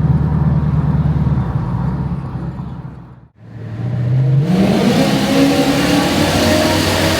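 Mercedes-Benz 560 SEC's M117 V8 engine running at a steady note, dipping almost to nothing a little under halfway through, then coming back and accelerating with its pitch rising steadily.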